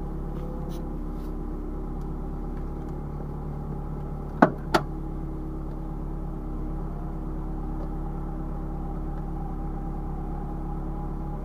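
Car engine idling steadily, heard from inside the cabin, with two sharp knocks a third of a second apart about halfway through.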